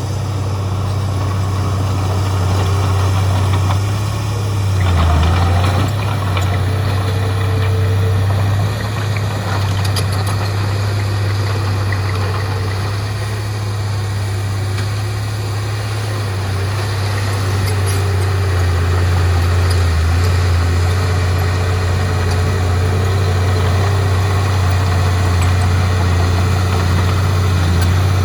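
Heavy diesel earthmoving machinery running steadily with a loud, even low hum, with a few brief dips and faint clicks along the way.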